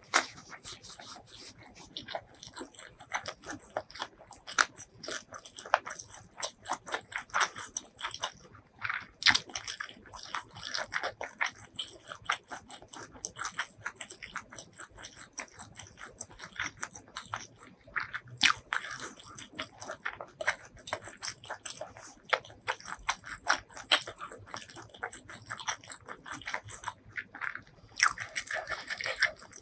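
Close-miked eating: a continuous run of crunchy bites and chewing, many small crackles a second.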